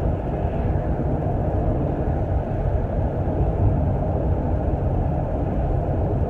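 Steady low rumbling road noise of a moving vehicle, even throughout.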